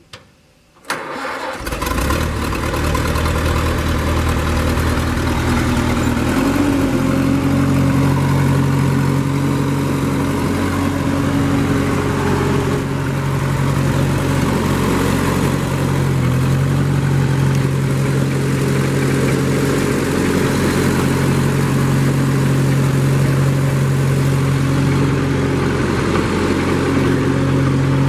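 1952 Massey-Harris 22 tractor's four-cylinder engine cranking and catching within the first couple of seconds, then running steadily. About six seconds in the engine speed steps up and holds at a higher, even idle.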